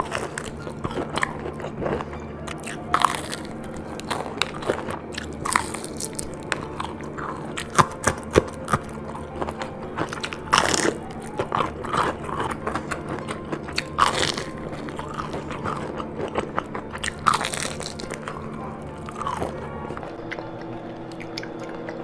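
A person biting and chewing food close to the microphone, with many sharp, crisp bites at irregular intervals. The loudest bites fall about 8, 10½ and 14 seconds in.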